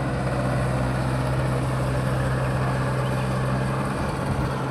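Mahindra 585 tractor's diesel engine running at a steady speed.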